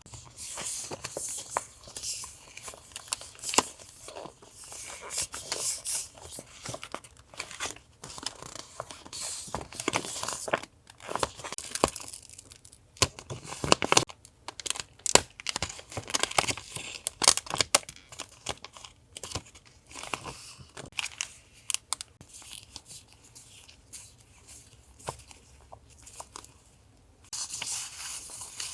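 Paper and plastic packaging of sticker and paper goods rustling, crinkling and tearing as it is unwrapped and handled, with many small clicks and taps. It comes in uneven bursts with short lulls.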